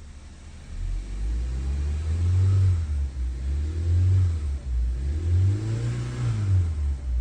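Volkswagen Jetta Hybrid's 1.4-litre turbocharged petrol engine starting about a second in, then its speed rising and falling in several uneven surges. The owner presents this as a starting problem.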